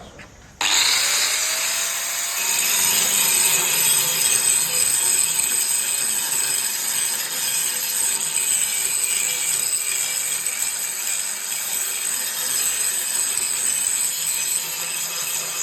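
Grinder with a green abrasive grinding wheel grinding 3 mm thick arc-welding lumps off a steel sheet. A loud, steady rasp of abrasive on metal over the motor's whine starts abruptly about half a second in.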